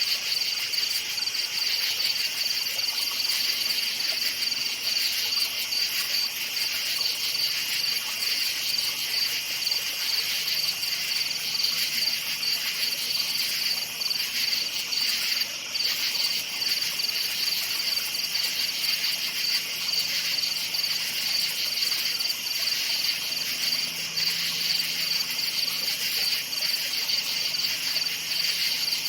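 Crickets chirping in a dense, steady chorus at night, their high trills overlapping continuously.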